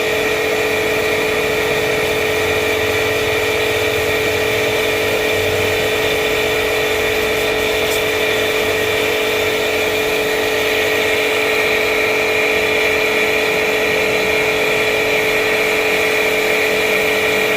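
A motor-driven machine running steadily: a constant hum with a high, unchanging whine, with no change in speed.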